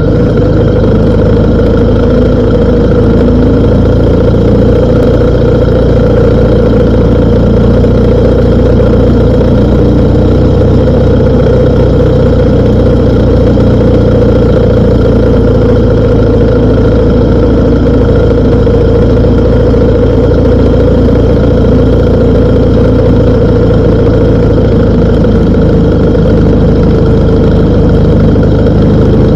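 BMW R1250 GS Adventure motorcycle's boxer-twin engine running at a steady idle, its pitch and level unchanging.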